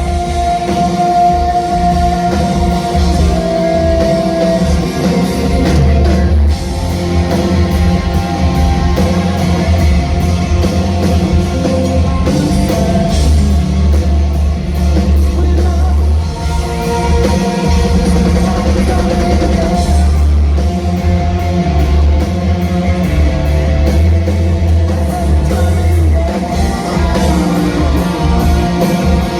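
Live rock band playing loudly: distorted electric guitars, heavy bass and a drum kit, with a sung vocal line over them.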